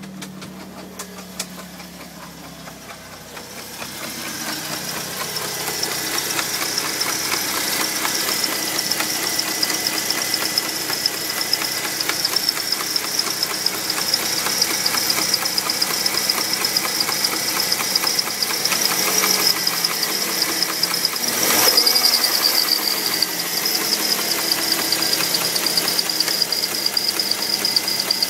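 BMW E36 318ti four-cylinder engine running just after starting, with a high-pitched noise from the belt drive that sets in about four seconds in and carries on steadily over the engine. Engine speed rises and falls briefly about three quarters of the way through.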